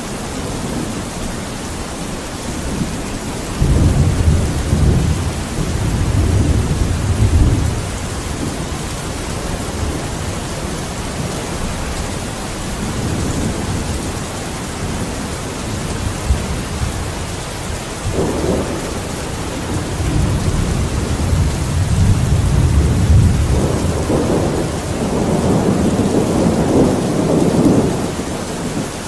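Steady heavy rain with thunder rumbling low and long, in several rolling swells: one from about four to eight seconds in, and two more spanning the last ten seconds.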